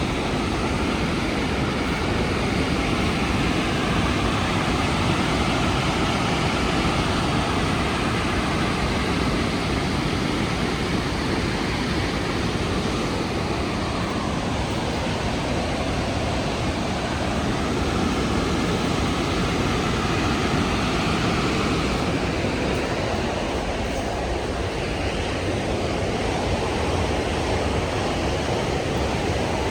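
Rhine Falls waterfall: a large volume of water crashing down, heard up close as a loud, steady, even roar.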